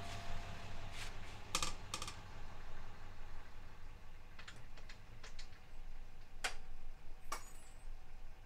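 Scattered sharp clicks and taps, about eight at irregular intervals, over a low steady hum. A ringing tone fades out in the first half second.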